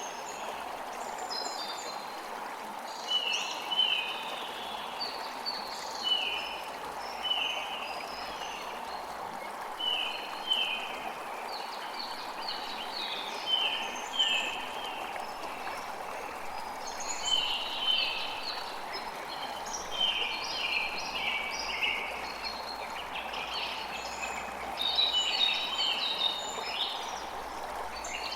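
Running water with a steady rush, and birds chirping over it in short runs of quick high notes, again and again.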